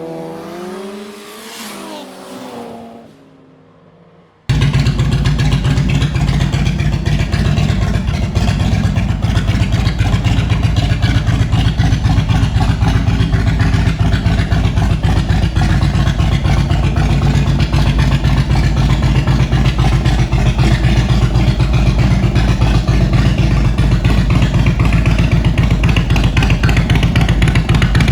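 Indian Roadmaster's V-twin engine running steadily with an even low pulsing, cutting in abruptly about four and a half seconds in. Before it comes a short swooping sound effect that falls away.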